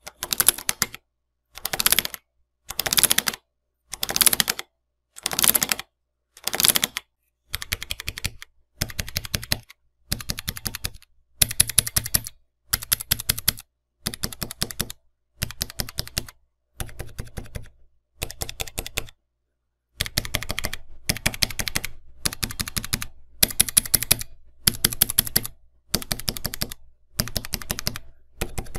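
RK61 60% mechanical keyboard with clicky Blue switches being typed on in rapid flurries of key presses, each under a second long and roughly one a second. There is a longer pause about two-thirds of the way through.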